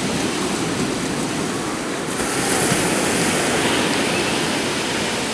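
Ocean surf washing onto the beach, a steady rushing noise that swells a little midway, with wind buffeting the microphone.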